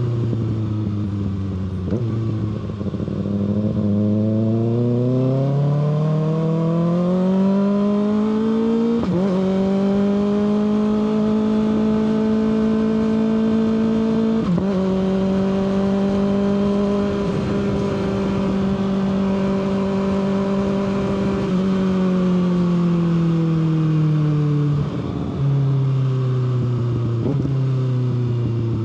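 Kawasaki ZX-6R's inline-four engine heard from the moving bike. It climbs steadily in revs and shifts up about nine seconds in and again around fourteen, then holds a steady cruise. From about twenty-two seconds the revs fall off as it slows, with further gear changes near the end.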